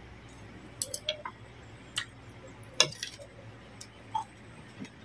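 Close-miked eating sounds: scattered sharp clicks and crunches while chewing a mouthful of som tam, the loudest a little under three seconds in.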